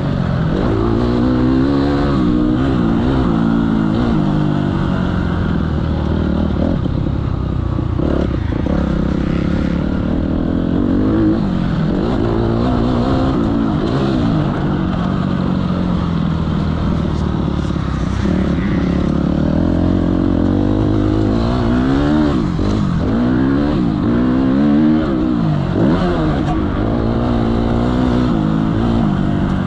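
Several motocross bikes revving on the track, their engine notes overlapping and repeatedly rising and falling as they accelerate and back off.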